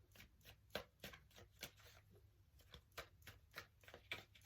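Faint hand shuffling of a tarot deck: a quick, even run of soft card slaps, about four a second, pausing briefly about two seconds in.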